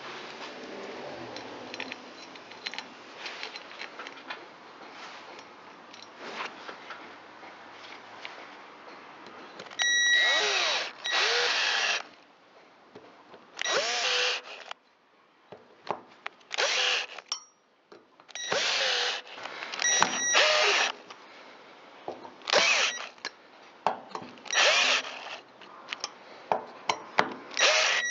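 Power drill/driver running in screws to fasten the pan onto a chainsaw engine's crankcase. It runs in about eight short bursts of a second or two, each with a rising motor whine, then gives quicker short blips near the end. Before that come a few seconds of quiet handling clicks.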